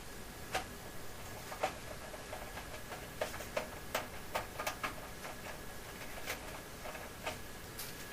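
Scattered light clicks and taps at irregular intervals, the handling of the clothes dryer's cover panel and its fasteners as it is put back in place.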